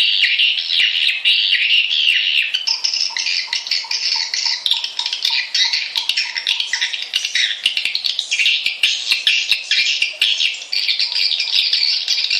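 A dense chorus of swiftlets chattering: many rapid, high-pitched chirps and twitters overlapping without pause. It is a swiftlet lure and roosting call, the kind of recording played to draw swiftlets into a nest house.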